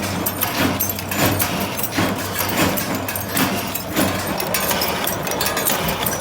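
Factory machinery running with a steady hum, overlaid by frequent irregular clanks and clicks of metal parts being worked.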